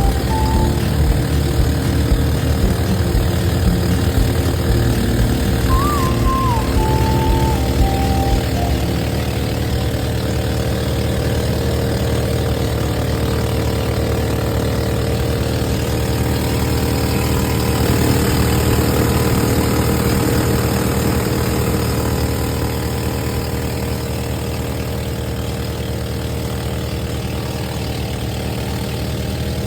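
An engine running steadily at a constant low pitch, with a short warbling high tone about six to eight seconds in.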